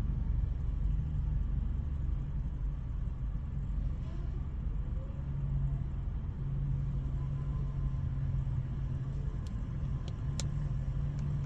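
Steady low vehicle rumble, a car engine idling, with a low hum that comes and goes and a couple of faint clicks near the end.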